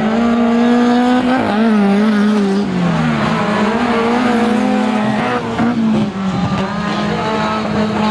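Autocross race car engines running hard, their pitch rising and falling as the drivers change gear and lift off, with dips about a second and a half in, around three seconds in, and near six seconds.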